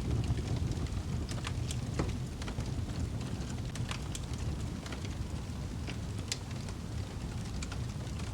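Wood fire crackling in a fireplace: a steady low rumble with irregular sharp pops and snaps.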